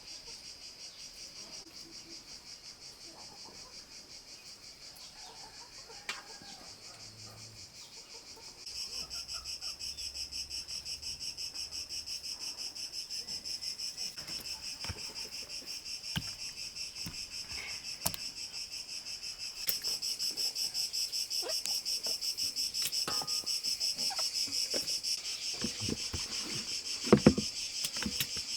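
Insects trilling steadily, a fast high-pitched pulsing that gets louder about a third of the way in. Scattered light knocks and clicks sound over it, with a louder double knock near the end.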